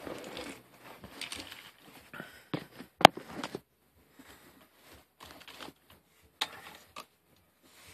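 Handling noises: irregular rustling and light clicks of small parts being moved by hand, with one sharp click about three seconds in.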